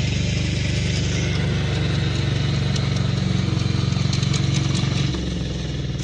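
Tractor engine running steadily, slowing and dropping in level about five seconds in.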